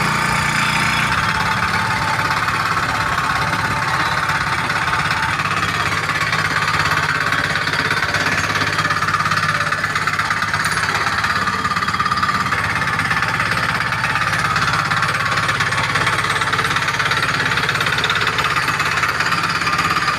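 8 hp diesel power weeder engine running steadily.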